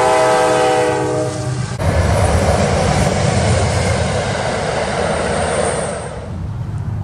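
A locomotive's multi-chime air horn holds a chord and is cut off abruptly under two seconds in. It is followed by the loud rushing rumble of an Amtrak passenger train's wheels going by at speed, which falls away near the end.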